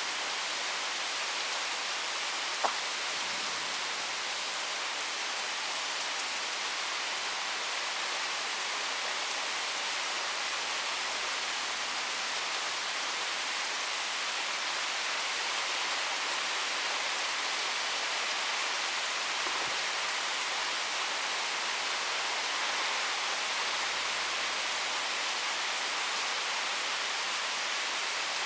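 Heavy thunderstorm rain falling steadily, an even hiss. One brief sharp click about three seconds in.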